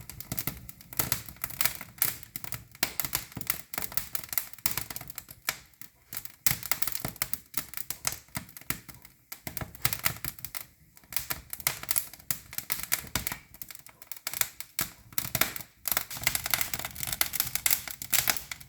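Damp bamboo and pallet-wood kindling burning in a cast-iron fireplace, crackling and popping in quick irregular snaps as the fire catches; the popping comes from moisture in the wood.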